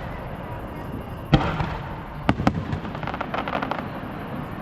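Aerial fireworks going off: one loud bang about a second in, two more bangs about a second later in quick succession, then a rapid run of crackling pops.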